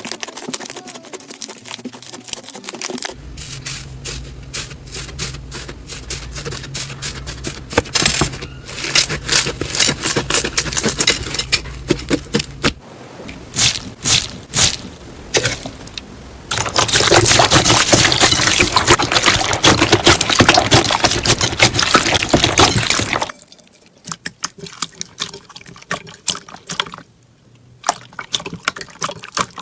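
Hands working slime: wet, sticky squishing with many small pops and clicks. For several seconds past the middle there is a louder, dense crackling stretch, then only scattered clicks.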